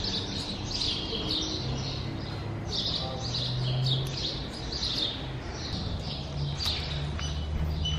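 Small birds chirping, a rapid run of short high chirps repeating throughout, over a low steady hum.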